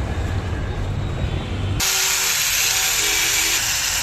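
Angle grinder running at speed, a steady high hiss that starts abruptly about two seconds in; before it, a low rumble.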